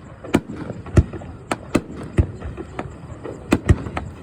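Aerial fireworks shells bursting in a rapid string of sharp bangs, about eight in four seconds, the loudest about a second in and again a little past three and a half seconds.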